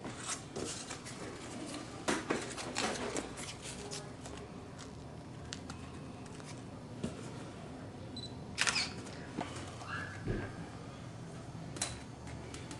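Scattered clicks and light knocks from hands handling foam model parts and tools at a workbench, with a cluster of them about two seconds in and sharper single clicks later.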